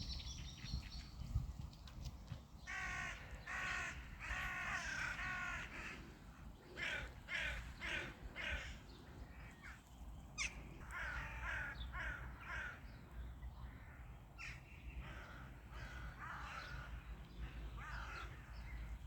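Birds giving harsh, crow-like caws in short runs of several calls each, recurring every few seconds over a low steady rumble.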